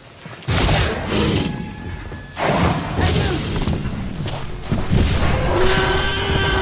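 Action-film soundtrack: music mixed with heavy booms and crashes, the first coming suddenly about half a second in and another a couple of seconds later. A long held tone comes in near the end.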